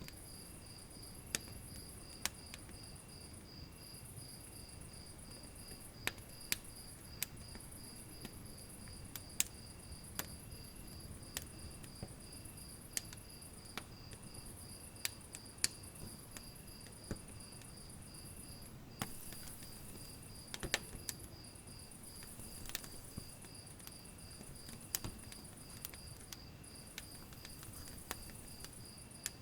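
Wood fire crackling in a fireplace, with irregular sharp pops and snaps. Behind it runs a steady, evenly pulsed high chirping of insects.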